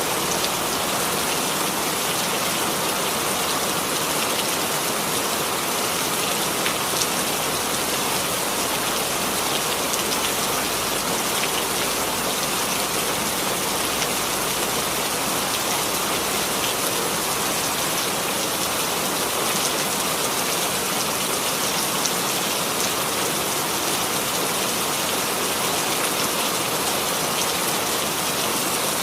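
Steady rainfall pattering on a surface, an even hiss of drops with no thunder.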